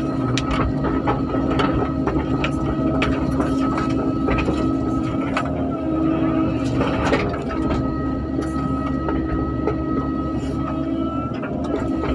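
Excavator's diesel engine and hydraulics running steadily with a constant whine, with scattered knocks and clicks throughout.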